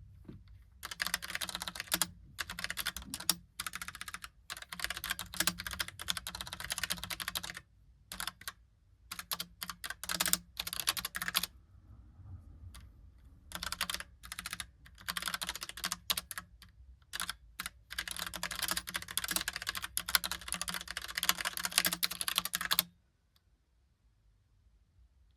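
Typing on a Logitech Pop Keys mechanical keyboard with round typewriter-style keys: fast runs of crisp key clicks in several bursts broken by short pauses, stopping a couple of seconds before the end.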